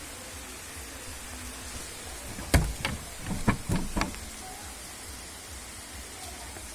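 Steady hiss of a hailstorm falling, with a handful of sharp knocks close together a little past the middle.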